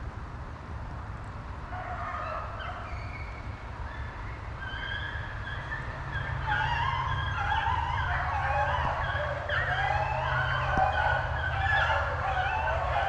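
A pack of rabbit hounds baying on a rabbit's trail: many overlapping voices that start faintly about two seconds in and grow louder and thicker from about six seconds as the pack comes closer. A steady low rumble runs underneath.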